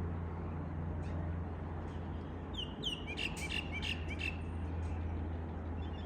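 A quick run of high, thin bird chirps, each sliding down in pitch, about halfway through, over a steady low rumble.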